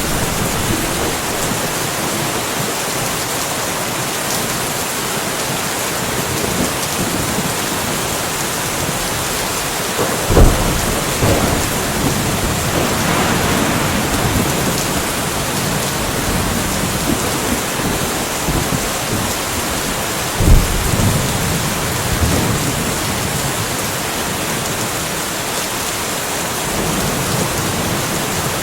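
Steady rainfall in a thunderstorm, with a sharp thunderclap about ten seconds in and another about twenty seconds in, each trailing off in a low rumble over a few seconds.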